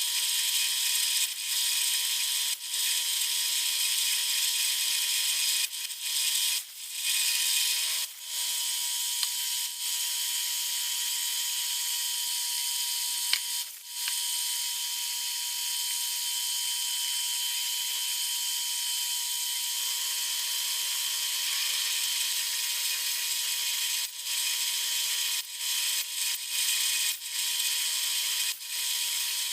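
Milling machine running, its cutter working a metal workpiece: a steady high hiss with a steady whine, cut off briefly several times.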